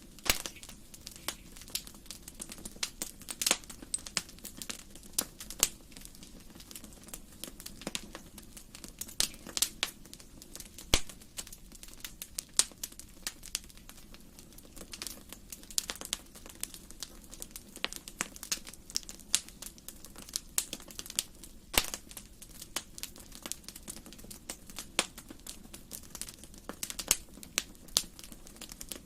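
Wood fire burning in a fireplace, crackling and popping in irregular sharp snaps over a low steady hiss.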